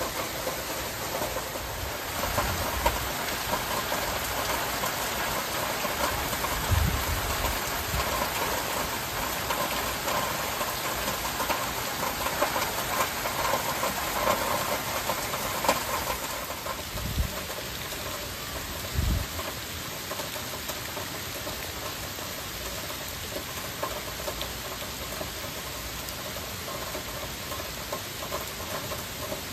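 Heavy rain falling steadily, a little heavier in the first half and easing slightly after about the middle. A few brief low thumps come through it.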